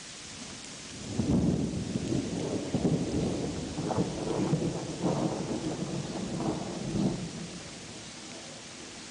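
A rolling peal of thunder over steady rain. The thunder rumbles in about a second in, rolls on in several swells for some six seconds, and dies away near the end, leaving the rain hiss.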